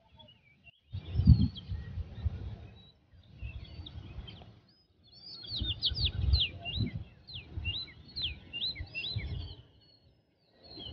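Small birds chirping, with a run of quick downward-sweeping chirps in the middle, over intermittent low rumbling.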